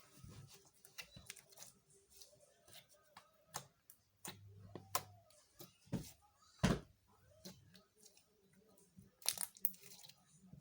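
Slime being squished and stretched by hand, giving irregular sharp pops and crackles, with two louder pops about six and a half and nine seconds in.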